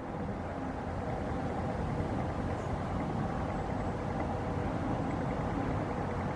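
Jet airliner engines running, a steady rush of noise with faint steady tones through it.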